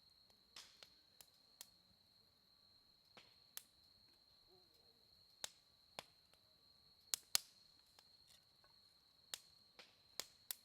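Firewood crackling in a campfire: sharp, irregular pops, with two louder ones close together about seven seconds in, over a steady high-pitched tone.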